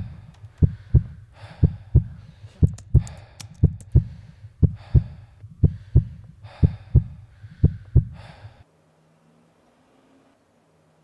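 Heartbeat sound effect: a double thump, about once a second, with breathy rushes between and a few sharp clicks about three seconds in. It stops about eight and a half seconds in, leaving a faint low hum.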